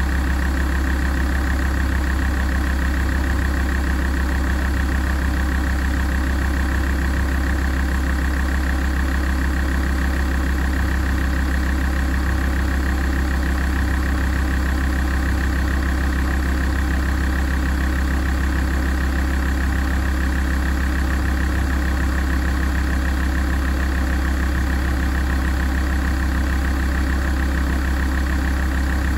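Alfa Romeo 166 2.4 JTDm five-cylinder common-rail diesel idling steadily while warming up.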